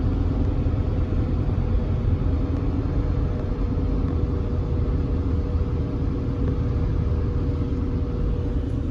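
Steady low rumble of a car running, with a faint steady hum.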